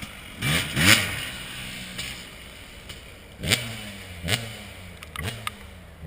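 Dirt bike engine blipped about five times, the revs shooting up sharply and then falling away between bursts.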